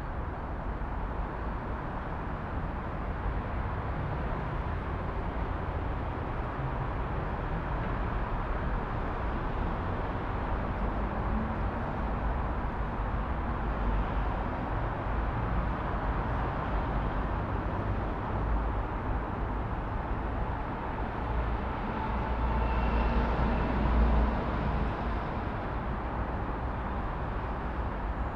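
Recorded city traffic ambience: a steady rumble and hiss of passing road traffic, with one vehicle passing louder about three quarters of the way through.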